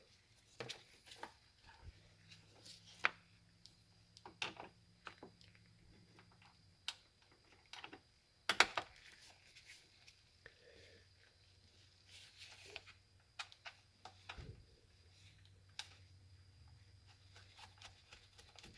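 Scattered light clicks and knocks of metal battery cable terminals and hand tools being handled while the lugs are fitted onto a battery post bolt, the sharpest knock about eight and a half seconds in.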